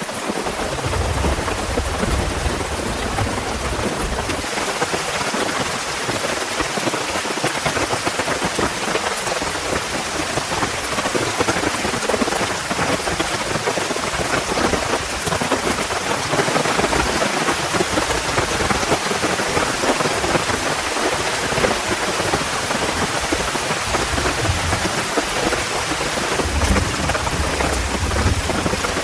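Heavy rain falling steadily, with low rumbles of thunder about a second in and again near the end.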